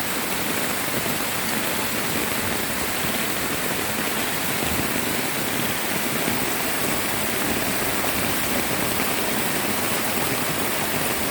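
Heavy rainstorm with floodwater rushing past: a steady, unbroken wash of rain and running water.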